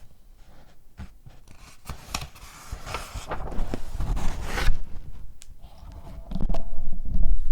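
Paper packaging handled close to the microphone: scraping, crinkling and small taps, with a louder stretch of rustling in the middle and heavier handling near the end.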